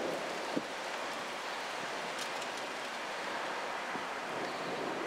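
Steady hiss of a light thundery shower and wind, with one soft knock about half a second in.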